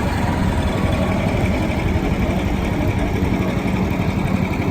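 An engine running steadily at idle, a dense low rumble that holds one pitch without revving.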